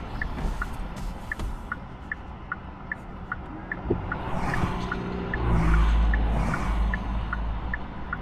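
Hyundai Ioniq 6's turn-signal indicator ticking steadily, about two clicks a second alternating between two pitches, over road and tyre noise on a wet road. A low rumble swells for about two seconds past the middle.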